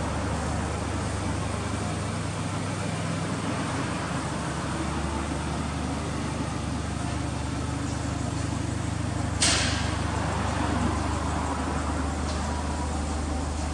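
Subaru Impreza WRX STI (GRB) idling steadily with a low drone through an aftermarket HKS muffler. A single sharp click about nine and a half seconds in is the loudest sound.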